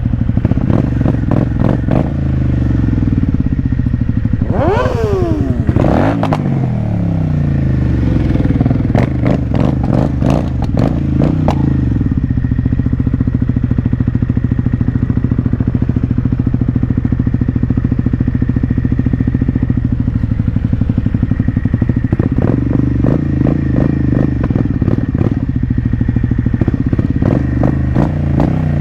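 Motorcycle engine running steadily at speed, with a quick fall in pitch about five seconds in.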